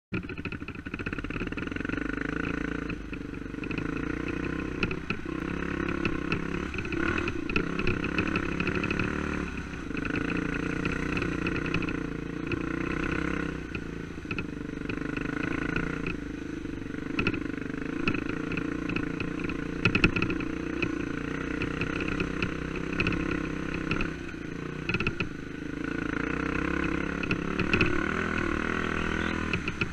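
Dirt bike engine running under load on a rough trail, its note rising and falling every few seconds with the throttle, with scattered sharp knocks and clatter from the bike over rocks, one louder knock about two-thirds of the way through.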